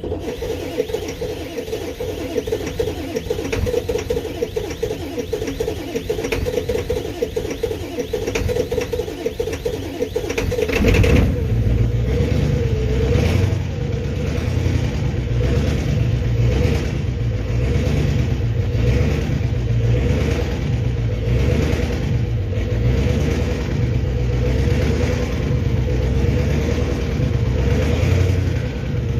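Ford 7.3 Power Stroke V8 turbo diesel with a 4-inch straight-piped exhaust, cold-started at 10 °F with bad glow plugs: about eleven seconds of steady cranking-like churning, then it catches and runs louder and deeper with an uneven, pulsing beat as it struggles cold.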